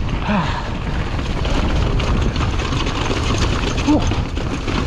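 Wind buffeting the microphone, with a mountain bike's tyres and frame rattling over a rough, wet trail on a descent.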